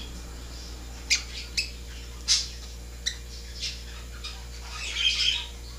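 Short, sharp squawks from an egg-bound bird held in the hand while a crosswise egg is being worked out of its vent. The calls come singly every half second or so, with a longer run of calls near the end, and are the sign of the bird's discomfort during the extraction.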